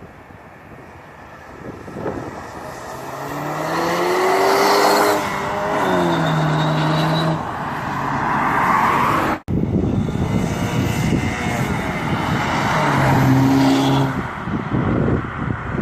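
2016 Camaro's 2.0-litre turbocharged four-cylinder, on the stock exhaust fitted with two turbo whistles and an Injen Evo7300 cold air intake, accelerating: the engine note climbs and steps in pitch as the automatic shifts. The sound breaks off suddenly about halfway through and a second loud run follows.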